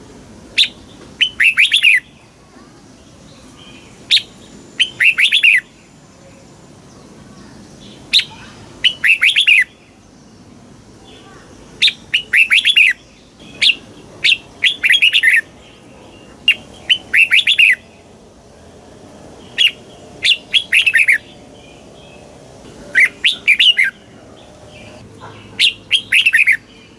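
Red-whiskered bulbul singing: short, rapid warbled phrases, each often led by a single sharp note, repeated every one to three seconds.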